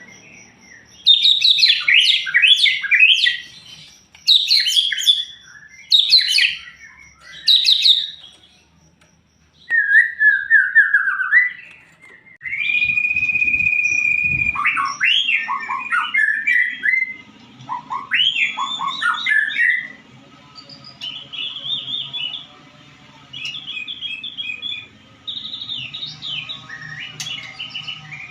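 White-rumped shama (murai batu) singing: bursts of fast, varied high phrases, then a long steady whistle about halfway through, followed by more varied and softer repeated phrases. A faint low hum sits underneath in the second half.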